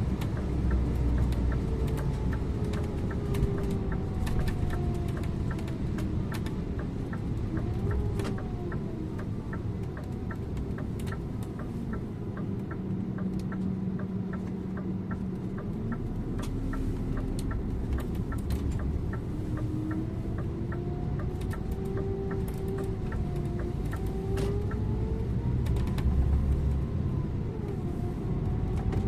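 Scania InterLink bus engine and road noise heard from the driver's seat. The engine note falls as the bus slows, holds low for a few seconds, then climbs as it pulls away again. A fast, regular ticking runs through the first two-thirds.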